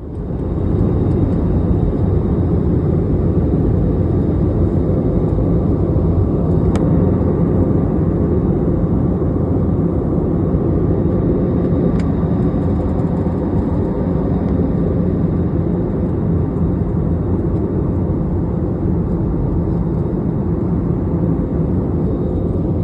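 Steady cabin noise of an airliner in flight: even engine and airflow noise, strongest in the low range, with two faint clicks.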